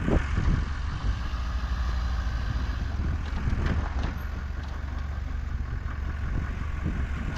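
Pickup truck engine idling with a steady low hum, a few faint knocks in the middle.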